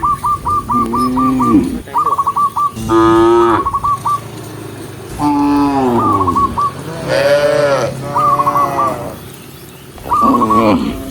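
Cattle mooing, about six separate calls in quick succession, many rising then falling in pitch. A high, rapid trill of short chirps sounds alongside most of the calls.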